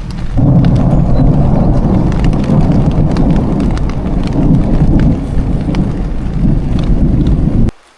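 Loud rolling thunder rumbling over rain during a thunderstorm. It sets in sharply and cuts off suddenly near the end.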